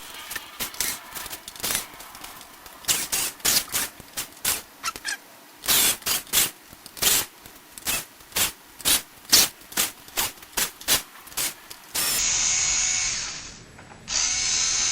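A run of sharp, irregular clicks and taps, several a second, then two steady buzzes of a small electric screwdriver backing out laptop case screws, the first about two seconds long and the second beginning just before the end.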